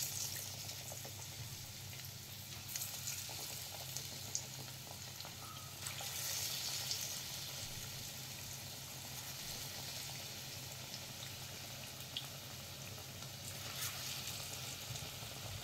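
Besan-battered potato slices (aloo pakoras) deep-frying in hot oil in a kadhai: a steady sizzling hiss of bubbling oil with small crackles and pops.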